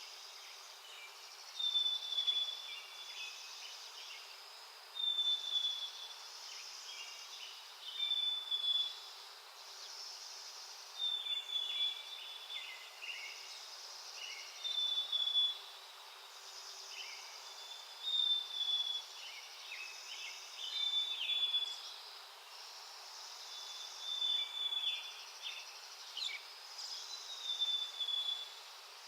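A songbird singing the same short song over and over, about every three seconds: a clear high note followed by buzzy, rattling notes, over a steady outdoor hiss.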